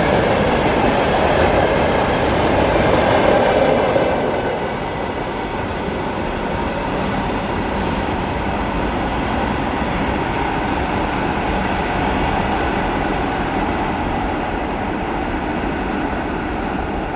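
Freight train rolling past on the rails, a steady rumble of wheels that eases a little about four seconds in and then runs on evenly.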